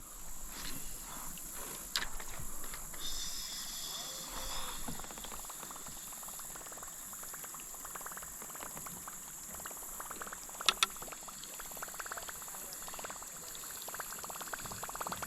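River water burbling and trickling close by, a dense fine crackle of small bubbling sounds, over a steady high-pitched hiss. About two-thirds of the way through come two sharp knocks in quick succession, the loudest sounds here.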